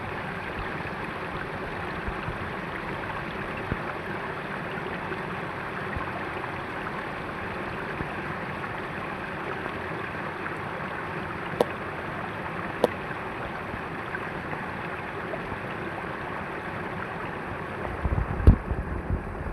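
Steady rushing water. Two sharp clicks come about halfway through, and a few low thumps come near the end.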